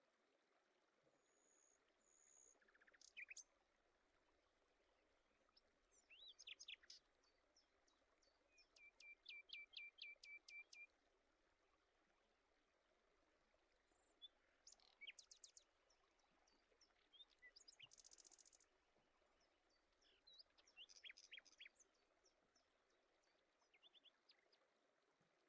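Faint birdsong: scattered short chirps and whistled calls, with a trill of evenly repeated notes about nine seconds in and a buzzy call later.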